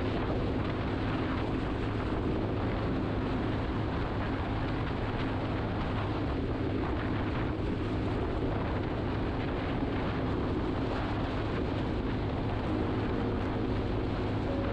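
Motorcycle engine running at a steady pace while riding, with wind rushing over the helmet microphone.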